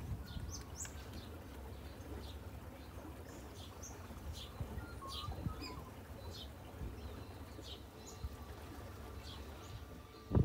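Birds chirping: short high chirps, one or two a second, over a low steady rumble.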